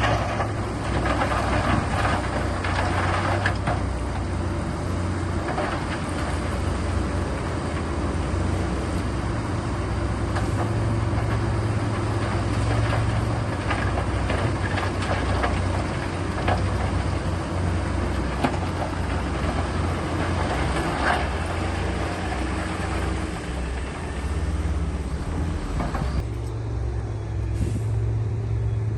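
Heavy diesel earthmoving machinery working, a steady low engine drone with a thin whine over it and scattered knocks and clanks. The higher noise thins out a few seconds before the end.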